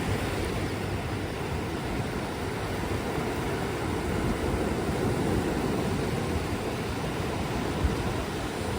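Sea surf washing on a beach, a steady low rumbling wash of waves without distinct breaks.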